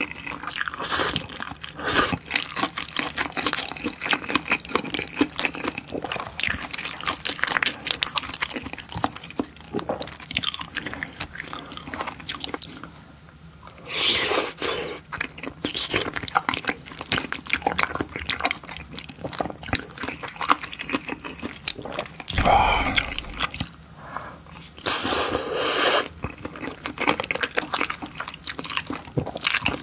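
Close-miked wet chewing of chewy rice cakes and fish cake in a thick spicy sauce: a steady run of sticky smacking and clicking mouth sounds. There is a low thump about three-quarters of the way through.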